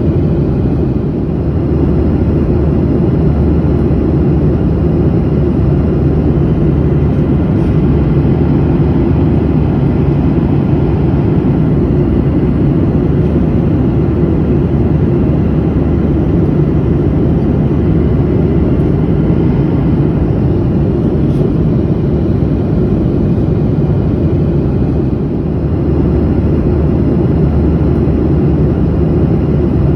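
Steady drone of a passenger airplane in flight, heard from inside the cabin: a low, even rush of engine and airflow noise with faint steady tones in it, dipping slightly twice.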